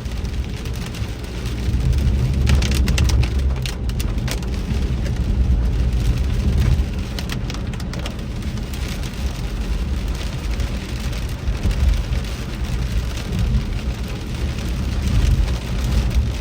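Heavy rain hitting a moving car, heard from inside the cabin over the low rumble of the car driving on wet road, with bursts of sharp ticks from drops striking about three seconds in and again around seven seconds.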